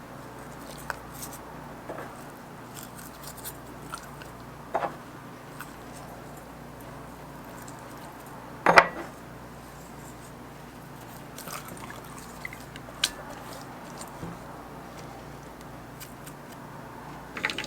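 Light handling noises: scattered small clicks and taps over a steady low hum, with one sharper knock about nine seconds in.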